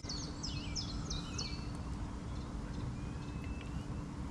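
Small bird calling: a quick series of about six chirps in the first second and a half, then a few fainter thin whistles, over a steady low hum and rumble.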